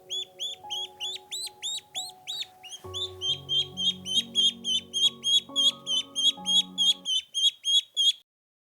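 A bird-like call of high, hooked chirps repeated evenly, about three or four a second and then quickening to about five a second after three seconds in, over soft music that stops near the end; the chirps end shortly after.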